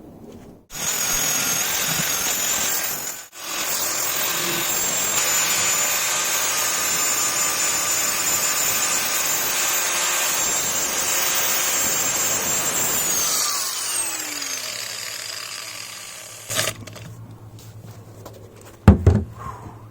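A power tool fitted with an abrasive pad, running on metal to smooth the part down. It starts about a second in, stops briefly, then runs for about ten seconds before spinning down with a falling whine. A knock and a sharp clatter follow near the end.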